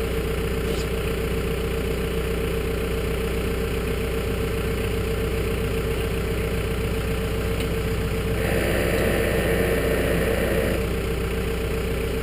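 An engine idling steadily. A rushing hiss joins it for about two seconds near the end.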